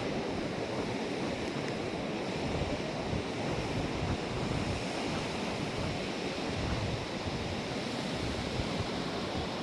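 Steady wash of surf on a beach, with wind blowing on the microphone.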